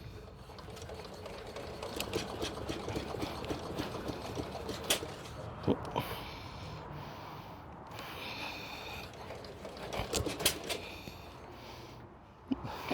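Scattered light mechanical clicks and ticks, with sharper clicks about five, six and ten seconds in and brief squeaky tones around six and eight seconds in.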